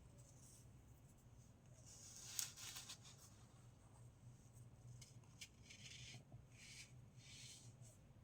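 Soft crunching of packed baking soda being crushed: a sharp crunch about two seconds in, then a run of four or five short, quieter crunches later on.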